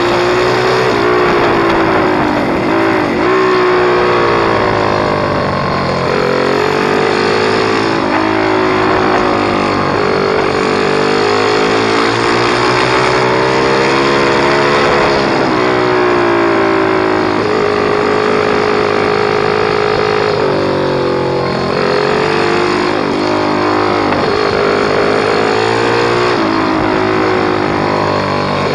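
Pit bike's small single-cylinder engine running hard. Its pitch climbs and then drops off, over and over, as the bike accelerates, shifts and backs off.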